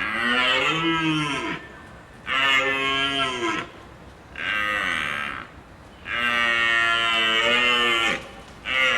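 A cow mooing over and over: five drawn-out calls of one to two seconds each with short pauses between them. The fourth call is the longest, and the last one is cut off.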